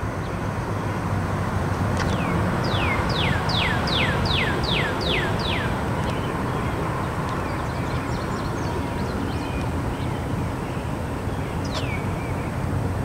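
A songbird sings a quick run of about eight down-slurred whistles a few seconds in, each falling steeply in pitch, with single similar calls before it and near the end. Underneath is a steady low background noise.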